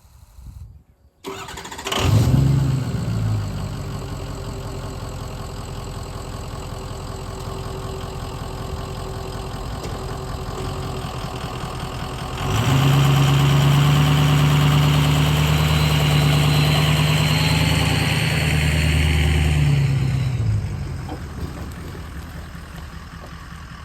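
Vehicle engine starting about a second in, then idling steadily; about halfway through it revs up louder and higher for several seconds, then drops back down.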